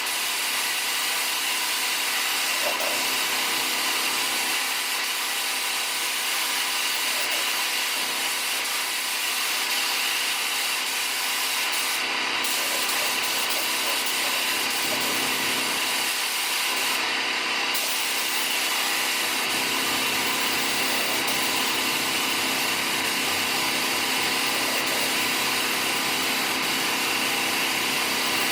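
A machine running steadily, giving a constant hum and hiss; the highest part of the hiss briefly cuts out twice, about 12 and 17 seconds in.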